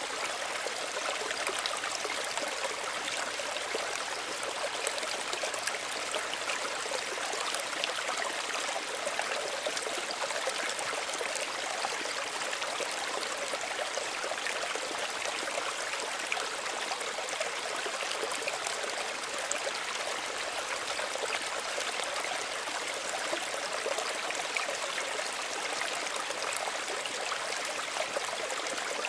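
Small stream running steadily over stones, a gentle even babble of water with fine trickling and splashing.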